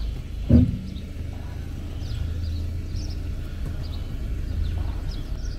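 A single heavy thump about half a second in, then the steady low hum of a car engine idling, with faint bird chirps over it.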